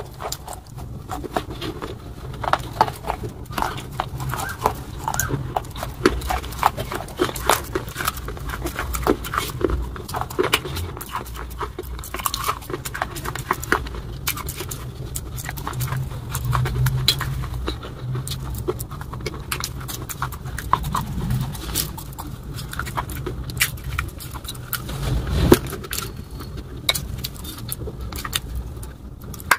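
Close-miked chewing of crunchy rolls of a dry, chalky, clay-like material: a dense, continuous run of crisp crackles and clicks from the mouth over a low rumble, with one heavier crunch near the end.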